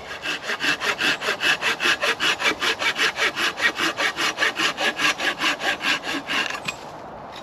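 Hand saw cutting into a piece of dense wood with fast, even back-and-forth strokes, about five or six a second, that stop a little before the end.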